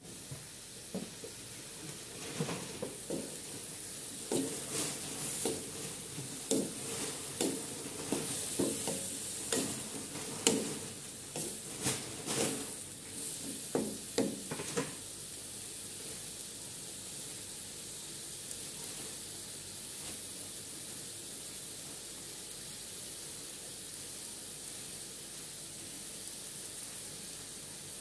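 Pork pieces sizzling as they fry in an aluminium wok, with a wooden spatula scraping and knocking against the wok in quick strokes for roughly the first fifteen seconds. After that there is a steady sizzle alone.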